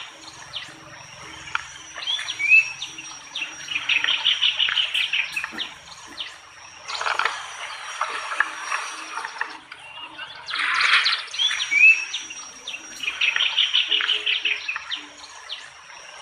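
Outdoor nature ambience: birds chirping in repeated trills over a steady high insect whine, with two bursts of rushing, water-like noise in the middle.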